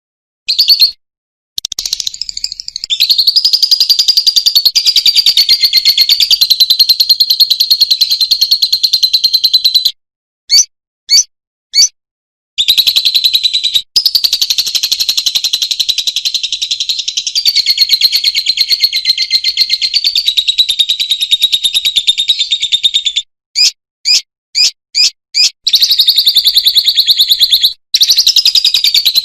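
Lovebird singing long, rapid chattering trills (ngekek), each held for several seconds. The trills are broken twice by a few short separate chirps: a third of the way in and again near the end.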